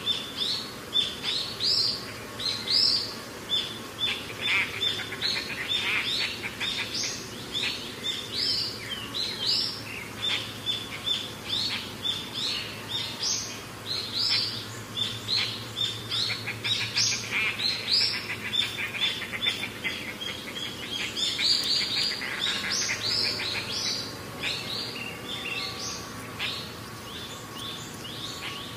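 Birds calling: a continuous run of short, high chirps repeating several times a second, with a few stretches of faster trilling.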